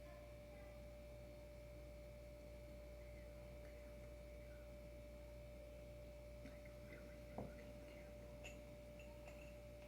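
Near silence: room tone with a steady faint whine, and a few light clicks and one small knock in the second half, as of small parts being handled.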